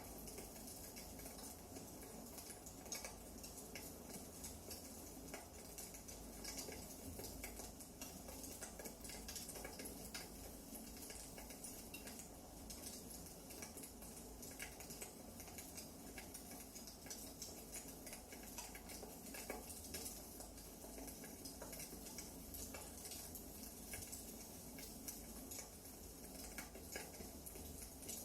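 Quiet wood fire crackling in a fireplace: a soft steady hiss with frequent small, irregular pops and snaps.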